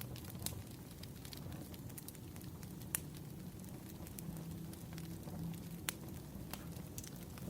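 Wood fire burning with a steady low rumble and irregular sharp crackles and pops from the logs; the loudest pops come about three and six seconds in.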